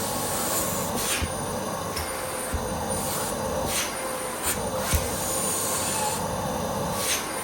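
Miele vacuum cleaner running with a steady whooshing drone and a faint motor hum. Half a dozen sharp clicks are scattered through it, as of hard bits striking the nozzle or floor.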